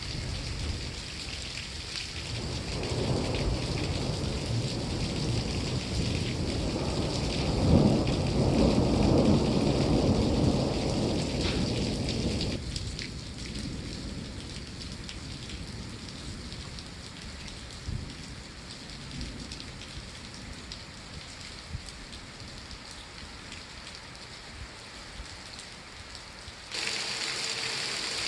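Steady rain falling, an even patter and hiss. A deep low rumble swells under it, thunder or a gust of wind, and stops suddenly about halfway through. Near the end the rain abruptly gets louder and brighter.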